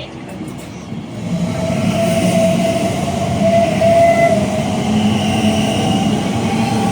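A train approaching and passing at speed, its running noise swelling about a second in and staying loud, with a steady, slightly wavering tone underneath.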